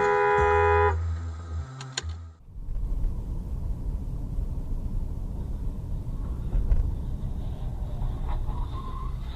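A car horn sounds, holding one steady chord and stopping about a second in. After a brief dropout it gives way to the steady low rumble of a car on the road.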